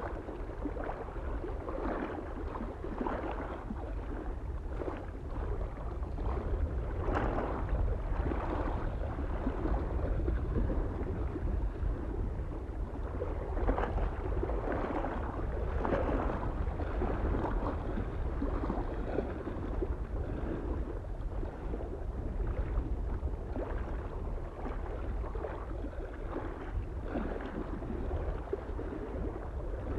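Small waves lapping and splashing against a lake shore every second or two, over a steady low rumble of wind.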